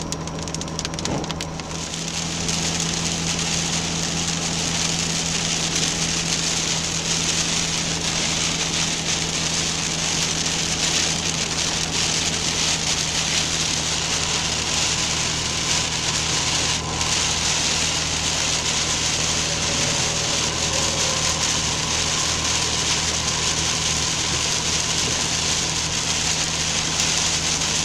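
Heavy rain hitting a truck's windshield and cab while driving, over a steady engine and road drone. The rain grows louder about two seconds in, then keeps up.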